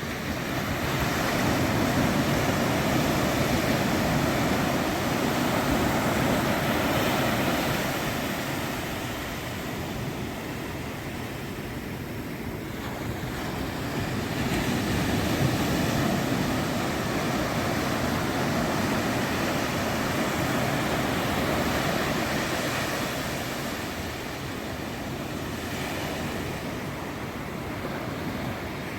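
Ocean surf breaking and washing up the beach, swelling and easing in two long surges.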